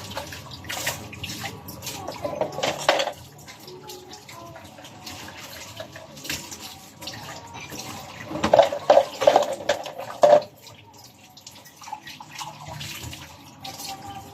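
Running water with short knocks and clatter, loudest in two stretches, about two seconds in and again around eight to ten seconds in.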